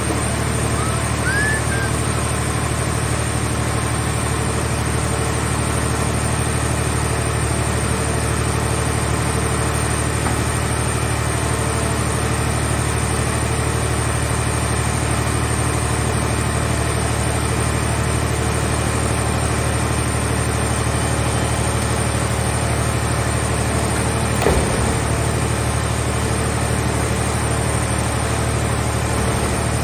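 An engine running steadily at one constant speed, with a brief knock and a short falling squeal late on.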